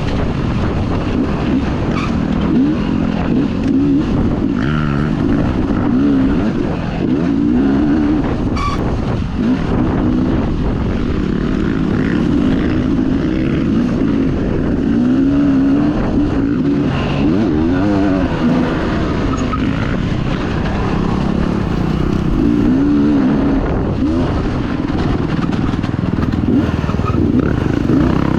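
Dirt bike engine being ridden on a race track, its revs climbing and dropping again and again.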